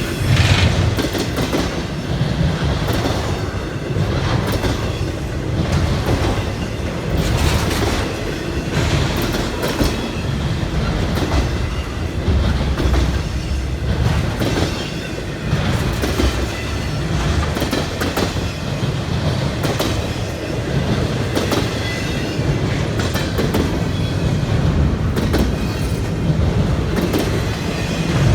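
CSX freight train's cars rolling past: a steady low rumble with a continual clickety-clack of wheels over rail joints.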